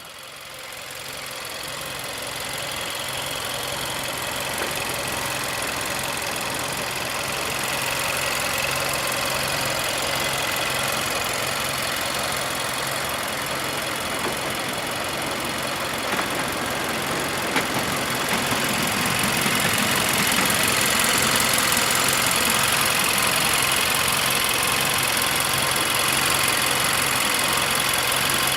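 Nissan Juke Nismo's 1.6-litre turbocharged 16-valve inline-four idling steadily, growing louder over the first couple of seconds.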